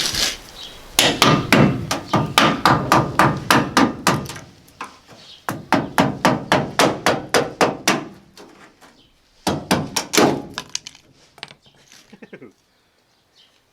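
Rapid hammer blows on a car's sheet-steel quarter panel, about four or five a second, knocking old Bondo body filler loose. The blows come in three runs, with pauses about four and eight seconds in, the last run short.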